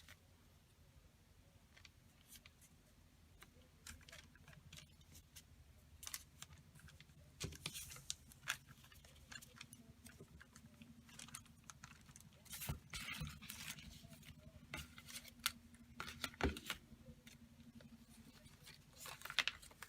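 Paper being handled and shuffled: scattered rustles and light taps, busiest in the middle, over a faint steady low hum.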